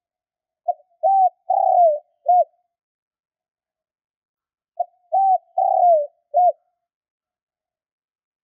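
Spotted dove cooing: two identical phrases about four seconds apart. Each is a brief first note followed by three coos, the long third note falling in pitch.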